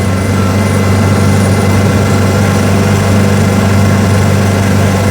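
1924 Austin Seven's small four-cylinder side-valve engine running steadily at an even pitch, heard from inside the car.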